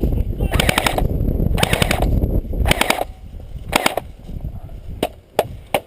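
Airsoft rifle firing four short full-auto bursts of rapid snapping shots, about one burst a second, followed by three single sharp cracks near the end, over a low rumble.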